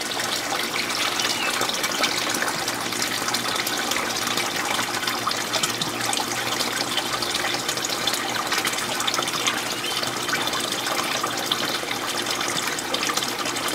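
Warm water pouring steadily from the outlet of a DIY solar water heater, a continuous splashing flow.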